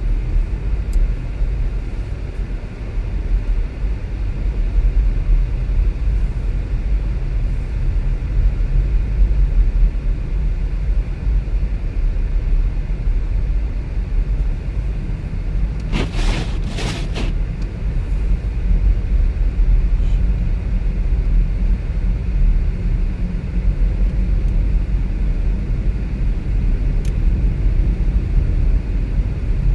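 Car driving: a steady low rumble of engine and road noise, with a short, harsher burst of noise about halfway through.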